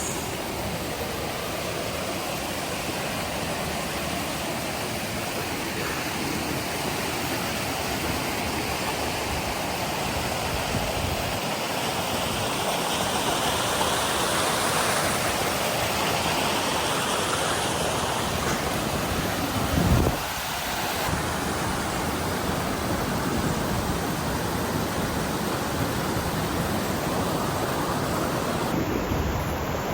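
Steady rush of flowing water from a stream or waterfall, with one brief bump about twenty seconds in.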